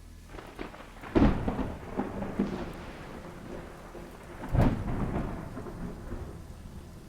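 Thunderstorm sound effect: two loud thunderclaps about three and a half seconds apart, each rolling off into a rumble, over steady rain.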